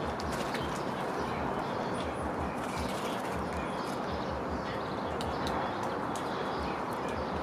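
Small birds chirping and ticking in short, scattered calls over a steady outdoor hiss and low rumble.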